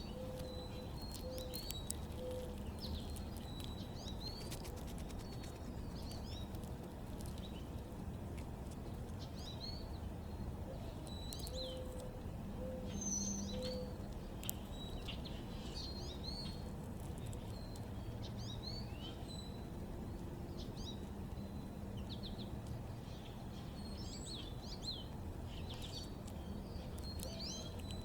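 Backyard birds chirping and calling: many short, quick notes throughout, with now and then a short series of lower notes, over a steady low background hum of outdoor noise.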